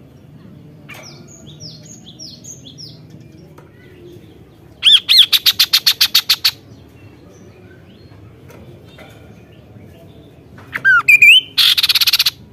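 Kaso-kaso bird singing: a few faint short falling notes, then a loud, fast series of about a dozen sharp notes. Near the end come a couple of rising whistled notes and a second loud, rapid trill.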